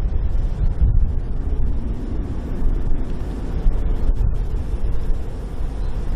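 Boeing 777-300ER's GE90-115B turbofan engines with a steady low rumble as the airliner flies its final approach.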